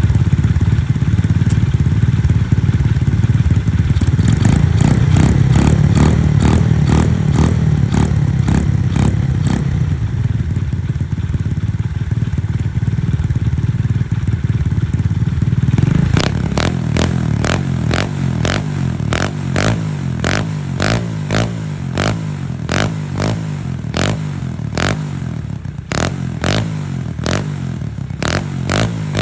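Honda Monkey minibike's small single-cylinder four-stroke engine running after start-up, loud and full for the first half. It then settles into a lumpy run with sharp pops about twice a second.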